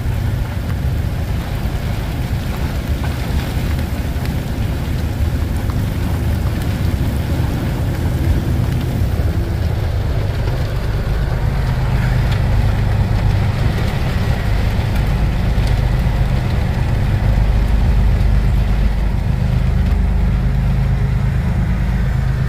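Heavy rain and a freight train of tank cars rolling past, a steady noisy rumble. In the second half a deeper diesel rumble builds as a mid-train GE ES44AC locomotive with its V12 diesel passes close by.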